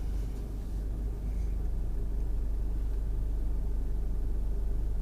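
Car running, a steady low engine and road rumble heard from inside the cabin.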